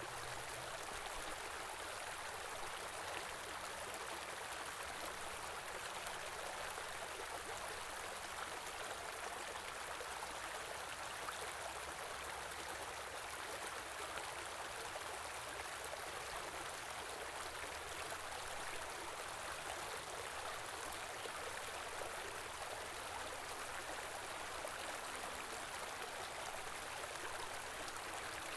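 Stream flowing steadily: a continuous, even rush of running water.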